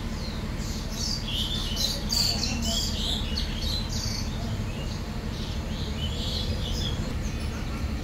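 Small birds chirping in quick, high chirps, thickest from about one to four seconds in and thinner later, over a steady low rumble.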